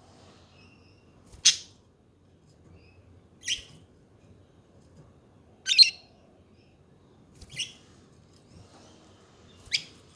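Pet budgerigars calling: five short, sharp chirps about every two seconds, with faint softer twitters in between.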